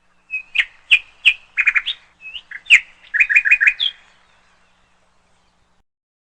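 Canary chirping: a quick run of short sharp chirps and rapid repeated notes for about four seconds, then fading out.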